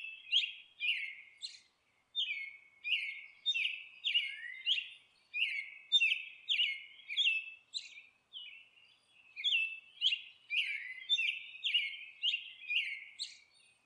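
A small songbird chirping over and over in short, quick downward-sliding chirps, about two a second, with a brief lull about halfway through.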